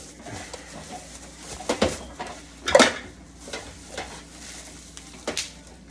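Hard plastic juicer parts and pitchers knocking and clattering as they are handled and set down: about six sharp knocks, the loudest about three seconds in.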